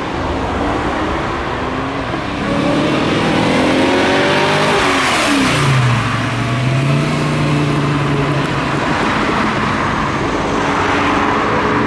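A car engine accelerating as the car drives past close by, its pitch rising and then dropping as it passes about five seconds in, then running steadily. Near the end an engine note rises again.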